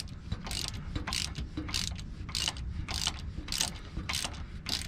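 A 1/4-inch drive ratchet with an 8mm deep socket clicking in quick, repeated swings, about three a second, as it backs out a small U-joint strap bolt.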